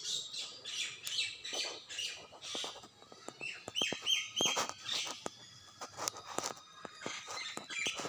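Small birds chirping busily, many short, sharp calls overlapping one another.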